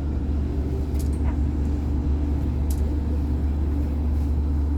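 Athens metro Line 1 electric train running, heard inside the carriage: a steady low rumble with a steady hum above it and a few faint clicks.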